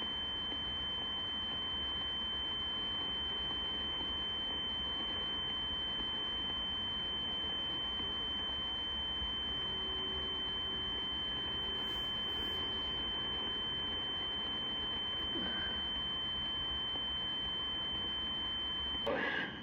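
A steady, high-pitched single tone keyed over a CB radio channel, with radio static underneath; the tone stops shortly before the end.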